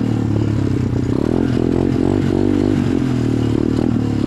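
SSR 125 dirt bike engine running hard, its revs rising and falling repeatedly as the bike pushes through a muddy, wet stretch.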